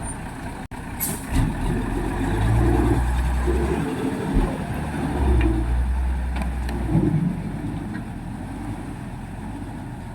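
Heavy truck engine running with a deep rumble that swells for several seconds and then eases off. A brief air hiss comes about a second in.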